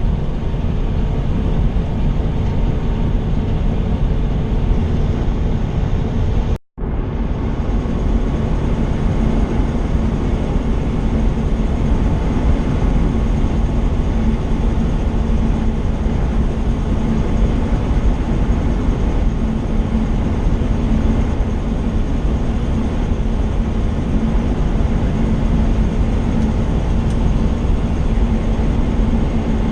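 Steady road and engine rumble inside a semi truck's cab while driving, with a steady hum. The sound breaks off for a moment about a quarter of the way in and picks up again unchanged.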